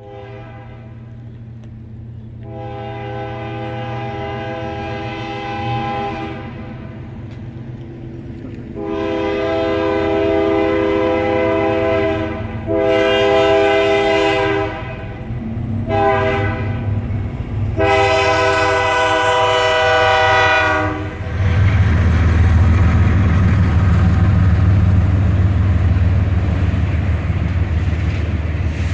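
An approaching train's locomotive sounds its multi-tone air horn in a crossing-style sequence of long and short blasts over a low diesel rumble. About twenty seconds in, the horn stops and the train rushes past with a loud, steady rumble of wheels and cars.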